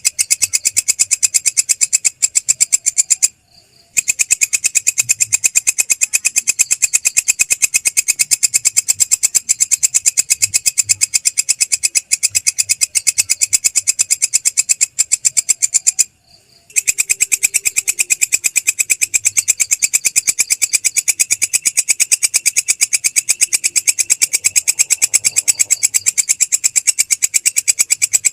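Belalang krek insect stridulating: a loud, high-pitched, fast and even rasping pulse train that stops briefly twice, a few seconds in and about halfway through.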